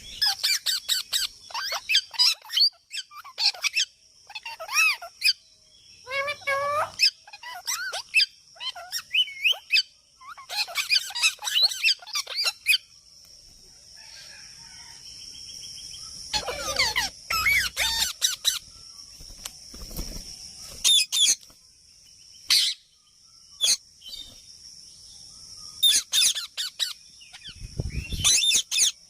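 Parakeets calling again and again with short squawks and chirps that bend in pitch, over a steady high-pitched drone in the background.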